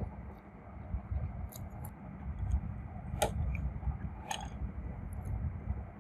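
Close-miked chewing of crunchy food, with a few sharp crisp crunches, the loudest about three seconds in and another a second later.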